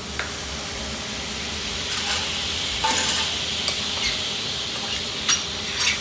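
Hot frying pan sizzling as it is deglazed, the hiss swelling about two to three seconds in, with a few clicks and scrapes of a utensil stirring in the pan.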